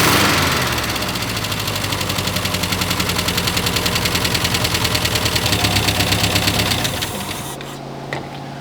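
1960 Peugeot 403's four-cylinder engine running just after a tune-up, with the dwell set and the vacuum advance disconnected. It is loudest at the start, then settles into a steady, even-pulsing idle, which is described as running reasonably well, and grows quieter near the end.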